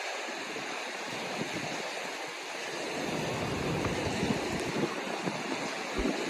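Ocean surf washing on a coral atoll shoreline: a steady rushing hiss. A brief low buffet of wind hits the microphone near the end.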